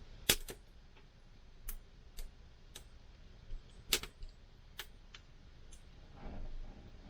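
Campfire wood crackling: irregular sharp pops and snaps, the loudest just after the start and about four seconds in, with a soft rustle near the end.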